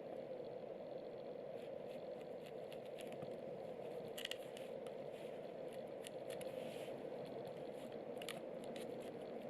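Food being prepared by hand: scattered light scraping and crunching clicks of cutting and handling ingredients, the sharpest a little over four seconds in and again near the end, over a steady background hiss.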